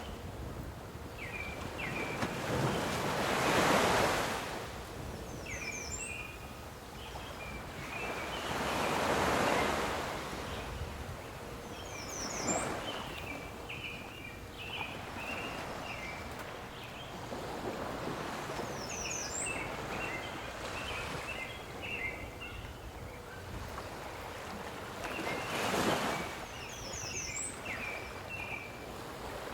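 Waves washing in and drawing back in slow swells several seconds apart. A songbird repeats a short chirping phrase with a high note about every six or seven seconds.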